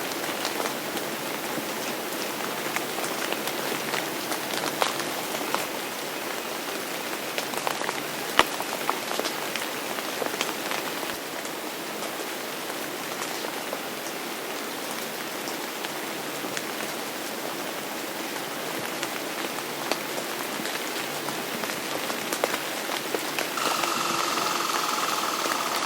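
Steady rain falling, with individual drops ticking sharply over an even hiss and one louder drop about eight seconds in. Near the end a faint steady tone joins the rain.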